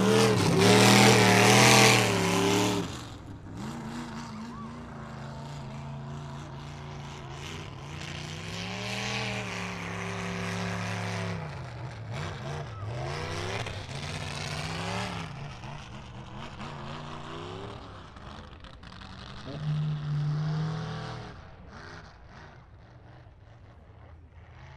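Mud bog super truck's engine revving hard as it drives through the mud pit, loudest in the first couple of seconds, then farther off with the revs rising and falling in repeated swells and one short loud burst near the end.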